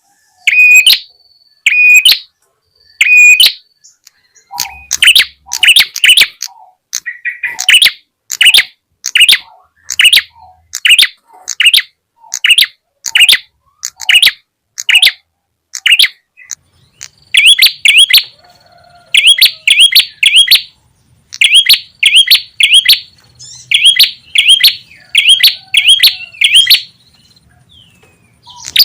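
Lure recording of prenjak tamu (red-headed prenjak) calls: sharp high chirps repeated about once a second, shifting after about four seconds to sweeping notes and, past the middle, to quick runs of two or three rising notes, with a short pause near the end.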